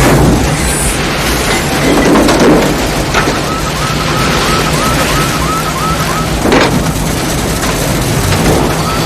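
Movie tornado-storm soundscape: loud, dense wind and storm noise over a steady rumbling truck engine, with a few sharp knocks. A small high electronic chirp repeats three or four times a second for several seconds midway and again near the end.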